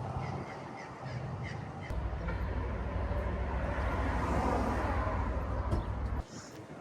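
Low, steady rumble of a vehicle engine running, over outdoor background noise; it starts about two seconds in and cuts off abruptly near the end.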